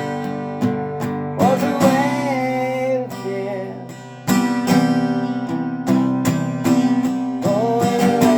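Music: an acoustic guitar strumming chords, with a sliding melody line over it twice.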